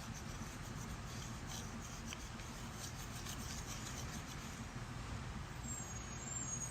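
Faint, irregular rubbing of a volcanic stone face roller rolled over skin.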